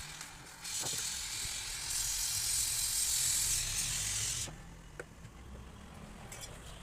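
Pressurised gas hissing out in a steady jet, stronger from about two seconds in, then cut off abruptly at about four and a half seconds, over a low steady hum.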